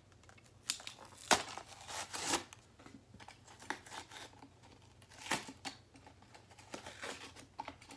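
Toy packaging being torn and crinkled open by hand: irregular rips and rustles, the sharpest about a second in, again around two seconds, and once more past five seconds.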